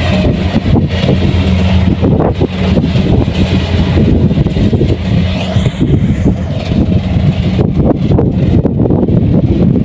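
Kubota rice combine harvester's diesel engine running steadily and loudly, with a constant low hum and a rough rattling noise over it.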